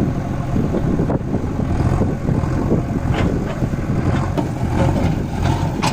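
Tractor diesel engine running steadily, with a few short knocks and rattles.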